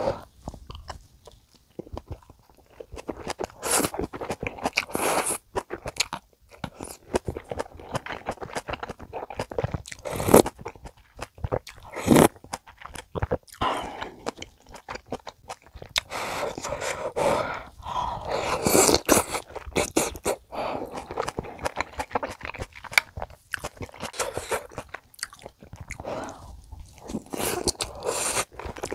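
Close-miked eating sounds: crunchy chewing of kimchi with rice, then softer, wetter chewing of stew, with many sharp clicks between the bites.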